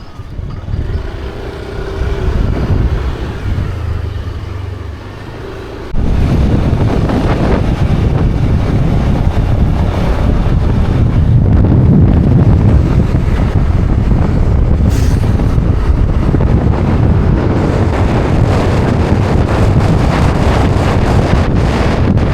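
A car driving along a road, with steady engine and road noise. About six seconds in, the level jumps suddenly to a loud, steady rush of wind buffeting the microphone.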